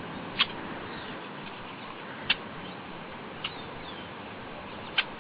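A bird giving short, sharp chirps, four in all, spaced one to two seconds apart, with a few fainter chirps between them, over a steady hiss.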